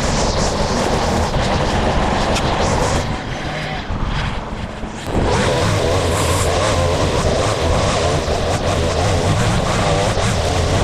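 Gas-powered lawn and brush-clearing equipment running under load, dropping back for a couple of seconds in the middle and then picking up to full power again.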